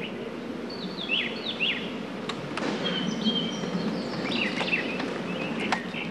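Small birds chirping in short, downward-sweeping chirps, a few together about a second in and again later on, over a steady outdoor background hum, with a few sharp clicks.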